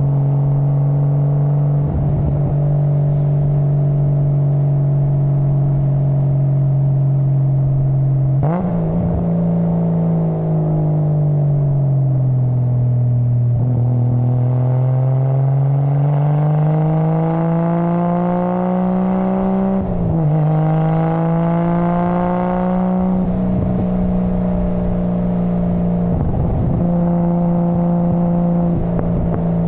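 Exhaust of a Nissan Skyline GT-R R33's RB26 twin-turbo straight-six under way. The note holds steady, sags after about eight seconds, then climbs steadily for several seconds. It breaks briefly and settles at a higher, steady note.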